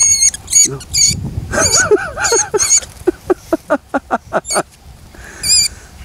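A small leaf-green bird (burung suir-suir), freshly caught and held in the hand, giving shrill, wavering squeaks: several in the first second and another about five and a half seconds in. Between them come lower arching sounds and a quick run of short ticks.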